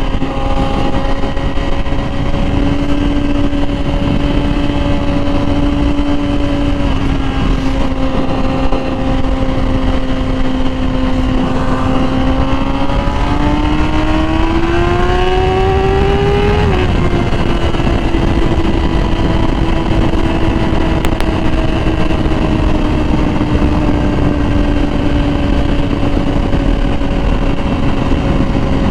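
Yamaha R6 sport bike's inline-four engine, fitted with a Graves exhaust, running at a steady cruise over wind rush. About halfway through it revs up for a few seconds, then drops off sharply and eases down slowly.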